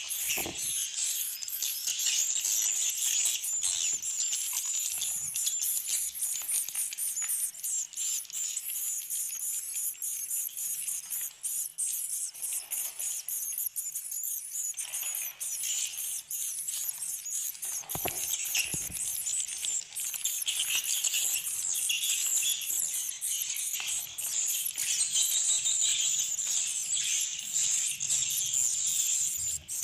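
A dense crowd of edible-nest swiftlets twittering and clicking without a break, the high chirps overlapping into one continuous chatter. A few low thumps come near the start and about two-thirds of the way in.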